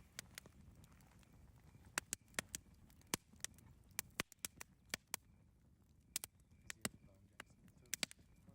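Campfire crackling: sharp, irregular pops and snaps, several a second, over a low steady rumble.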